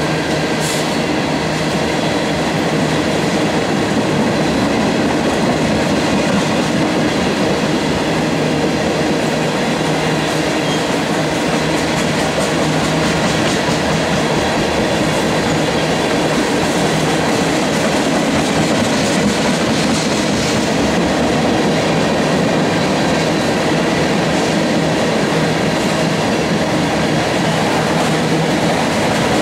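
Freight train of ethanol tank cars rolling past, their steel wheels running steadily over the rails.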